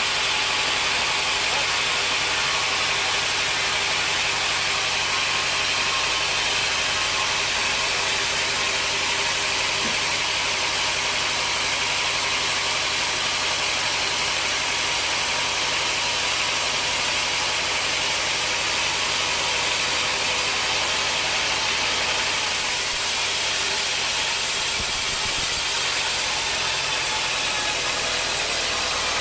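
Sawmill machinery running steadily: a constant engine-like hum under a dense hiss, with no cuts, strikes or changes.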